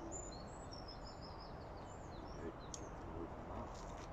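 Small birds chirping and singing in quick, high repeated notes over a steady background hiss of outdoor noise.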